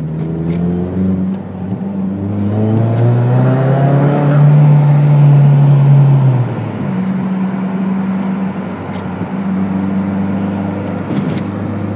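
Supercharged Pontiac Sunfire 2.4-litre four-cylinder engine accelerating hard, heard from inside the cabin. The engine note rises over the first four seconds and stays loudest until about six and a half seconds in. It then drops sharply to a steady, lower running note.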